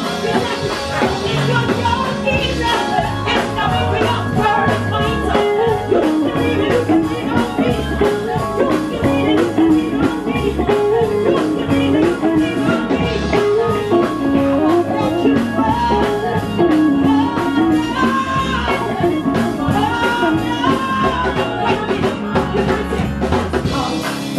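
A live quartet playing a blues-jazz groove: bass guitar under a wandering melodic lead line, with a steady beat.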